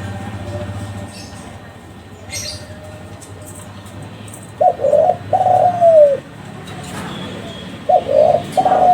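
Spotted dove (Kelantan derkuku) cooing: two phrases, one about halfway through and one near the end, each a few short notes followed by a longer note that falls in pitch.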